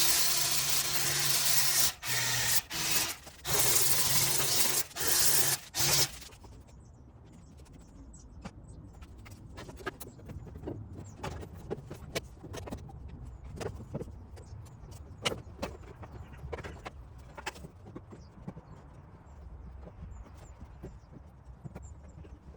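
A hand-held power tool with a motor hum and a rush of air, run in several short bursts for about six seconds. It is followed by light clicks and taps of tools being handled on the panel.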